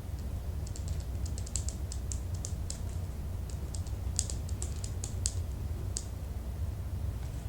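Typing on a keyboard: irregular runs of light keystroke clicks, busiest about four to five seconds in, over a steady low background hum.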